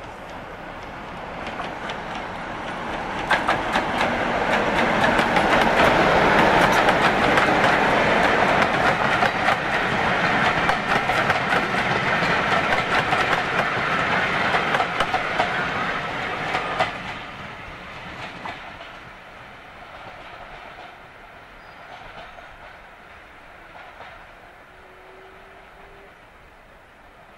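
Diesel locomotive passing at speed with a train of passenger coaches. Engine and wheel noise build as it approaches, with rapid clickety-clack of wheels over the rail joints as the coaches go by. The noise drops off sharply as the last coach passes about two-thirds through, then fades as the train draws away.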